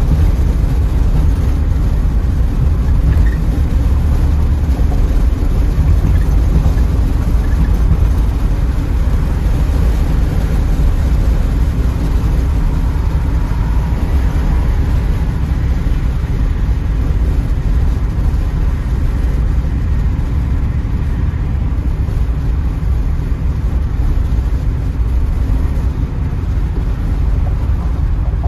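Steady rumble of wind and road noise inside a 1984 Pontiac Trans Am cruising with its T-tops off and windows up, the engine under it.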